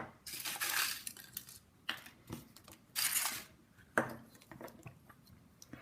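Small plastic Kinder Surprise toy pieces handled by hand: short rustles and a few sharp clicks.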